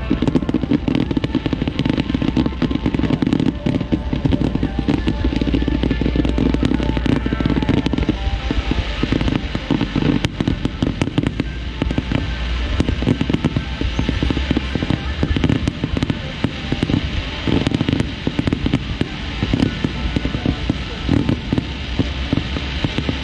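Starmine firework barrage: a dense, continuous run of rapid aerial shell bursts and crackles, with music playing underneath.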